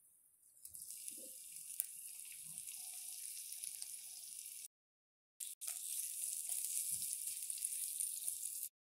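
Sliced shiitake mushrooms and ginger sizzling in hot oil in a pot, a steady crackling sizzle that starts about a second in as the mushrooms go in. The sound drops out briefly a little past halfway.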